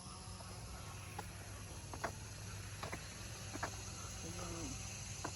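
Footsteps along a woodland trail, a soft step landing roughly once a second, over a faint steady outdoor background.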